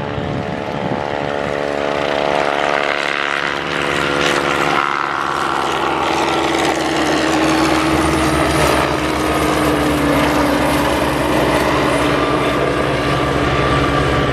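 Boeing Chinook tandem-rotor helicopter in its flying display. A steady engine whine comes first, then from about five seconds in a rapid rotor beat builds and grows louder, with the whine sliding slowly over it.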